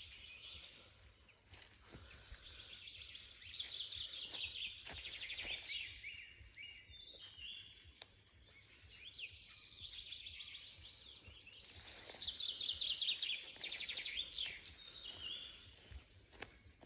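Forest songbirds singing: two long, loud phrases of fast trills and falling whistles, one starting about three seconds in and another about twelve seconds in, with fainter chirps from other birds between.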